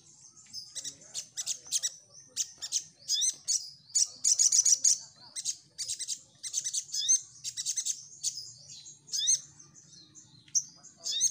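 Sunbird (sogon) singing: rapid bursts of very high, thin chirps and short rising trills, repeated in quick clusters with brief gaps.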